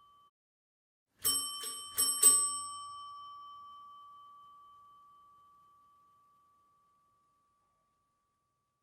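Mechanical doorbell: a metal bell struck four times in quick succession, its ring dying away slowly over several seconds.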